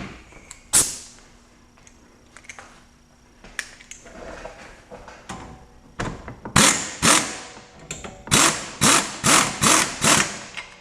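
Tool work on metal suspension parts: one sharp knock about a second in, then, near the end, a quick run of about eight sharp ringing strikes roughly half a second apart.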